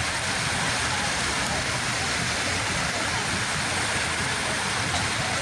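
Sea waves washing on the shore: a steady rushing hiss of surf with a low rumble beneath.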